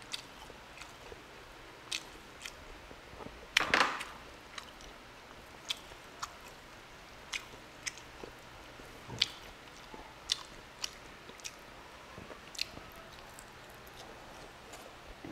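Close-miked mouth sounds of a man eating beef stew by hand: wet chewing with sharp lip-and-tongue smacks scattered through, and one louder, longer wet burst about four seconds in.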